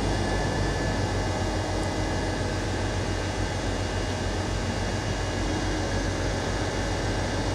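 Diesel engine of a Liebherr 110-ton mobile crane running steadily under load while it lifts a 24-ton track section, a continuous low rumble with no change in pitch.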